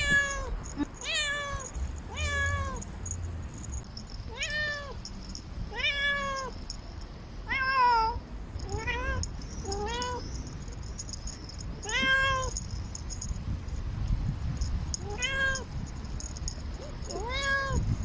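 Domestic cat meowing repeatedly, about eleven separate calls a second or two apart, each rising then falling in pitch: a cat calling for a mate.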